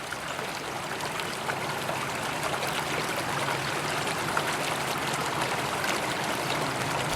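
River water flowing in a steady rush, growing a little louder.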